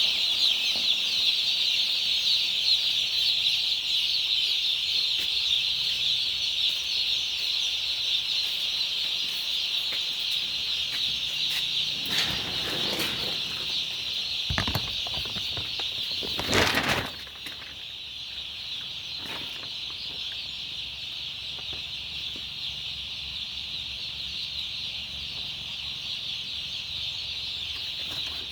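A flock of broiler chickens calling all at once, a dense steady high-pitched chorus. A few louder noisy rustles come around the middle, after which the chorus is a little quieter.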